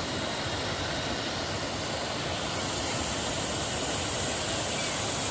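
Steady rush of falling water from a waterfall, a dense even hiss that grows brighter about a second and a half in.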